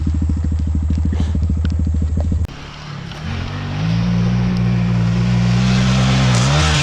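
Honda Grom's 125cc single-cylinder engine running at a steady low pitch. About two and a half seconds in, the sound drops away abruptly, then the engine note climbs and holds steady under riding, with a growing hiss.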